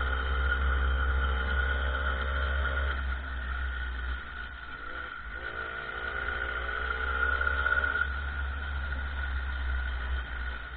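Small 50cc motorcycle engine under way, with wind rumbling on the microphone and a steady high whine. About three seconds in the engine eases off, then from about five seconds in it climbs steadily in pitch as it accelerates, before dropping back near the end.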